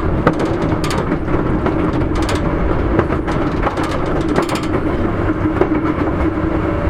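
Sotetsu 8000 series electric train running on the line: a steady rumble of wheels on the rails, with scattered clicks and knocks.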